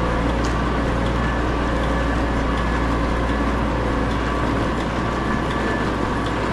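Tractor engine running steadily while the tractor is driven, a continuous low rumble with faint steady tones and a few light rattles.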